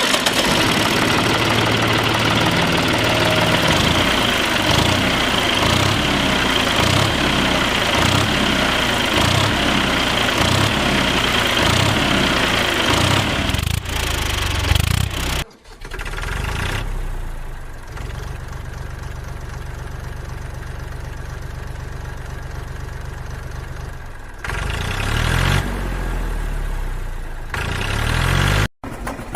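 Vehicle engine sounds in edited segments. A running engine with a rhythmic chug cuts off abruptly about halfway through, followed by a lower, steadier idle. The sound changes again near the end and breaks off briefly.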